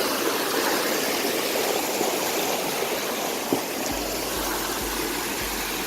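Steady rushing and splashing of a waterfall. A low rumble in uneven pulses comes in about four seconds in.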